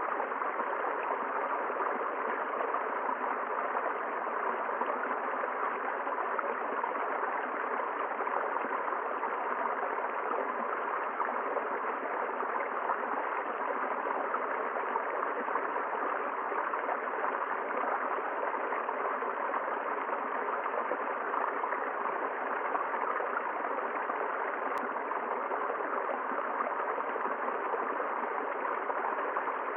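River water flowing steadily, an even rush with no separate splashes or other events.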